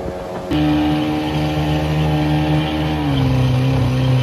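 Small jet boat's motor running steadily under way, with a sudden jump to a louder, fuller engine note about half a second in. About three seconds in, the pitch drops a step as the throttle eases.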